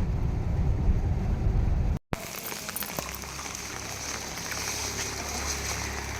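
Low rumble of a vehicle on the move for about two seconds, then after a sudden cut, steady rain falling with scattered drip taps over a low steady hum.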